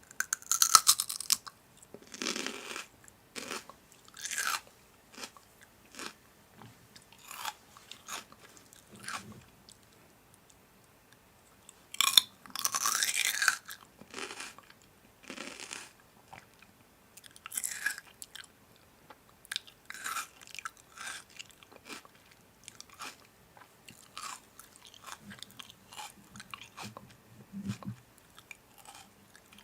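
Crisp food being bitten and chewed close to the microphone: irregular crunches with short pauses between them, loudest about a second in and again around the middle.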